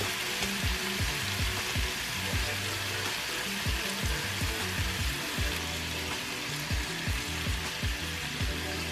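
Whole shrimp and garlic frying in a nonstick pan, a steady sizzle. Background music with a low beat plays under it.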